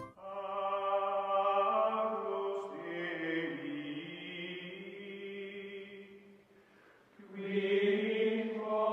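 Slow chanting voices holding long, steady notes. They fade out about six and a half seconds in and come back for one more held note near the end.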